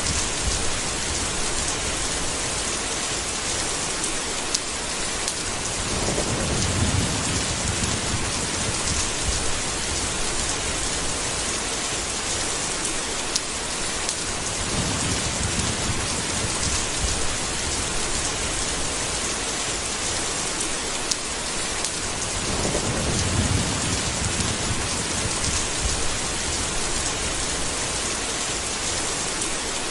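Thunderstorm: heavy rain falling steadily, with low rolls of thunder swelling up about three times, roughly every eight seconds.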